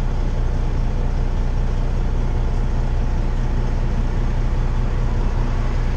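Truck's diesel engine droning steadily, heard inside the cab, with road noise.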